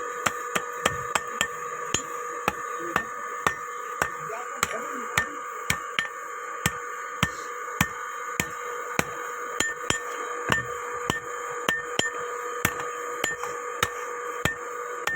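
Blacksmith's hammer striking iron on an anvil while forging a hoe, in a steady rhythm of about two blows a second over a steady background hum.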